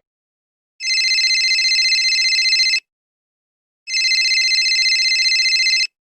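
Telephone ringing sound effect: two rings of about two seconds each, a second of silence between them, with a rapid trilling warble to each ring.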